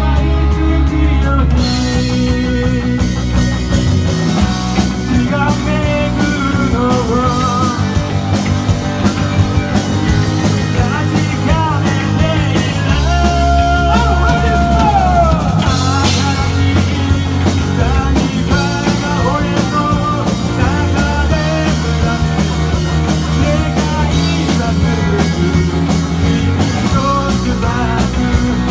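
Live rock band playing with drum kit and electric guitar. A lead guitar line with bent notes runs over it, and about halfway through a held note slides down.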